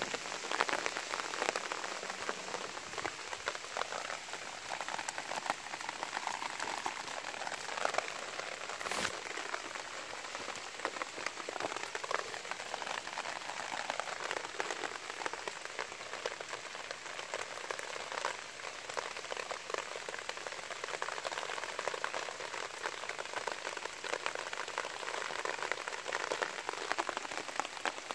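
Light rain pattering steadily on a wet concrete road and the grass beside it, a continuous hiss of many small drop ticks. One sharp knock about nine seconds in.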